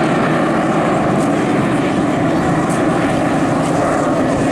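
Jet Provost T1's Armstrong Siddeley Viper turbojet in flight: a loud, steady rushing noise without breaks.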